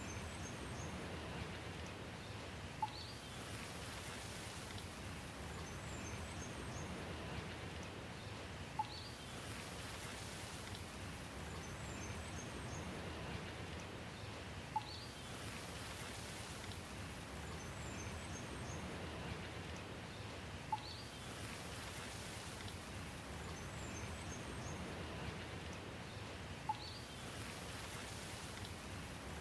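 Steady rain falling. A short high chirp and a sharp tick come back exactly every six seconds, five times, the sign of a looped rain recording.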